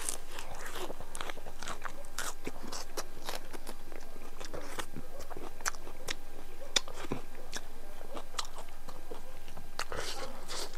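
Close-miked chewing of a mouthful of chicken biryani, heard as an irregular string of short clicks.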